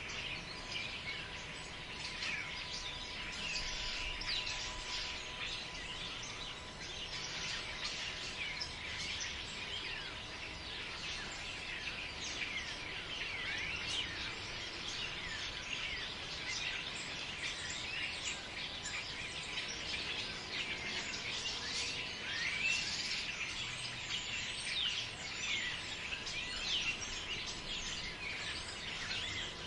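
Forest birds chirping and calling densely, many short overlapping chirps and whistles with no break. A faint steady tone runs underneath for the first part.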